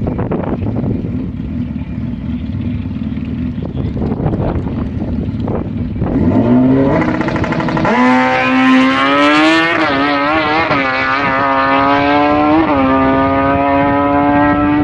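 Drag-racing motorcycle engine rumbling at low revs, then revving up about six seconds in and holding a high, steady pitch with a few small blips.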